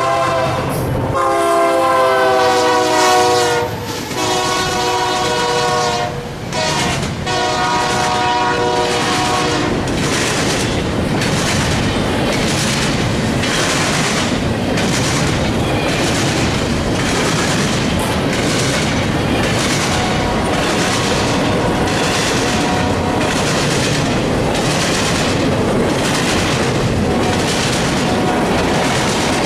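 A freight train's diesel locomotive horn sounds a chord in several blasts with short breaks, stopping about a third of the way in. After that, the freight cars roll past with a steady rumble and regular wheel clicks about once a second.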